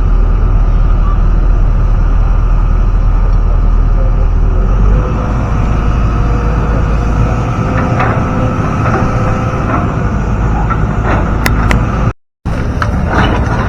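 Steady low rumble of a motor vehicle running, with scattered clicks and knocks in the second half and a brief cut in the sound near the end.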